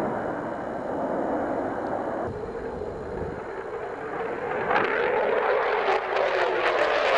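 Military fighter jet engine noise, a loud rushing sound that dips slightly a few seconds in, then swells again with a harsh crackle from about five seconds in.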